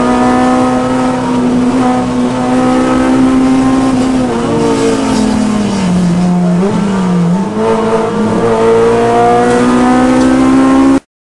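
A car's engine running at a steady high pitch, dropping in pitch for a few seconds about halfway through with a brief wobble, then climbing back up. The sound cuts off abruptly just before the end.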